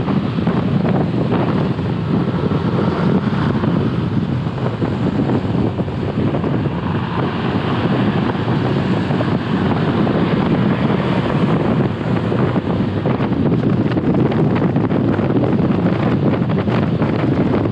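Steady rush of wind buffeting a helmet-mounted GoPro's microphone while riding a motorbike.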